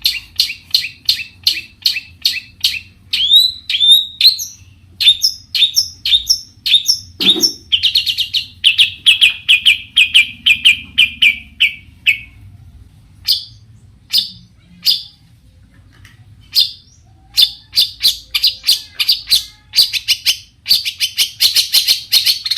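Long-tailed shrike singing: rapid series of sharp, loud chirps and short downslurred notes, running into a fast chattering trill midway, thinning to scattered notes, then picking up into dense chirping again near the end.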